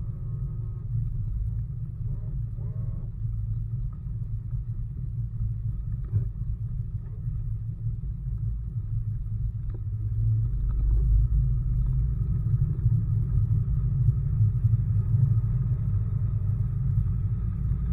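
Bass boat running under outboard power: a steady low rumble of motor and wind, getting louder about ten seconds in.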